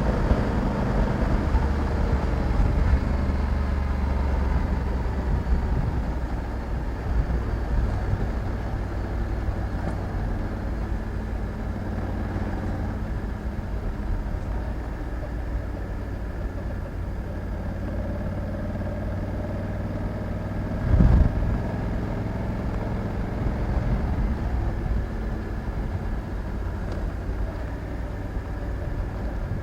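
Honda Africa Twin 1100's parallel-twin engine running as the motorcycle rides along at a fairly steady engine speed, its pitch shifting slightly now and then. A short thump about 21 seconds in.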